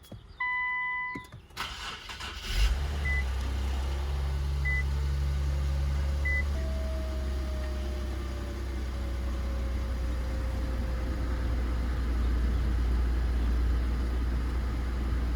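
Infiniti Q50's 3.0 twin-turbo V6 starting after its oil service and battery charge: a warning chime sounds, the starter cranks briefly and the engine catches about two and a half seconds in, then runs steadily at idle. A short beep repeats three times just after it catches.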